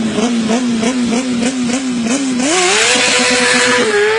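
Motorcycle engine revving in quick, regular blips, about three a second, then climbing to a higher, steady pitch about two and a half seconds in and holding there.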